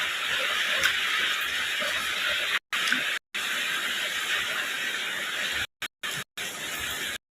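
Steady rain falling, heard as a continuous even hiss, broken by several short dead-silent gaps.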